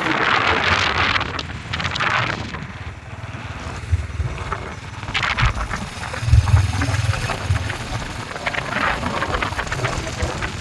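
Wind buffeting the microphone of a moving motorcycle, gusting in and out irregularly over a low rumble.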